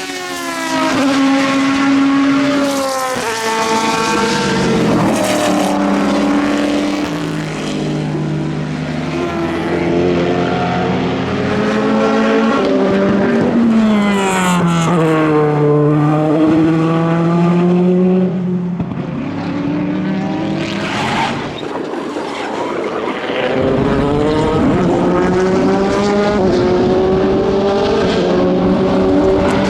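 Endurance racing cars at full throttle, engines climbing in pitch and stepping down at each gear change as several cars go by. About halfway through, one car passes close and its pitch drops as it goes away; near the end another car's engine rises through the gears.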